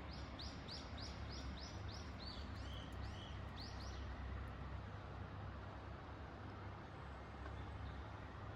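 A bird singing a run of about a dozen short, arched, high notes, about three a second, that stops about four seconds in, over a steady rushing background noise with a low rumble.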